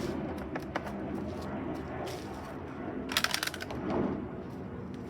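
Refuelling a lawn mower from a gas can: handling noises, with a short burst of rattling clicks about three seconds in over a steady background hum.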